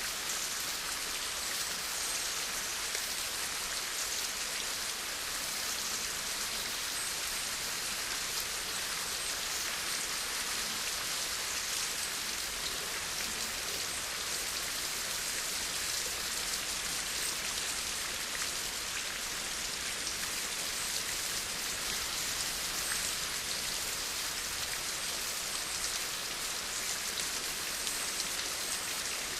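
Steady rain falling, a constant hiss of many drops with no thunder or change in intensity.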